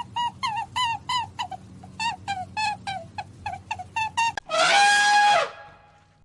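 Animal calls: a quick series of short calls, each bending down in pitch, about three a second. About four and a half seconds in comes one long, louder call that drops in pitch at its end and fades away.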